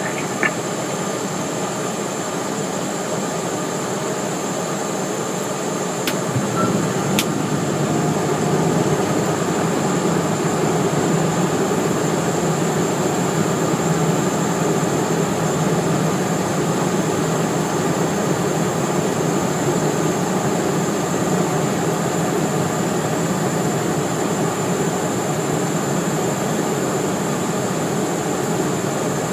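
Steady cockpit noise of a Cessna Citation Mustang on final approach: rushing air and its twin Pratt & Whitney Canada PW615F turbofans, with a high steady whine. Two sharp clicks come about six and seven seconds in, after which the noise grows a little louder.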